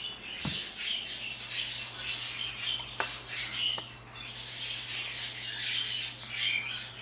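Pet parrots and parakeets chirping and squawking in short scattered calls, over a steady low hum, with a single click about three seconds in.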